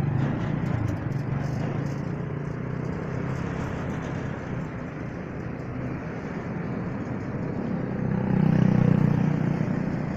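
Small motorcycle engine pulling a three-wheeled cargo cart: it pulls away and grows fainter as it crosses the road, then gets louder about eight seconds in as the rig turns and comes back.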